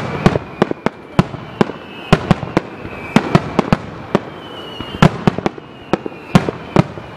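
Aerial fireworks shells bursting in quick succession: sharp bangs, several a second, coming in irregular clusters, with a thin high whistle drifting slowly down in between.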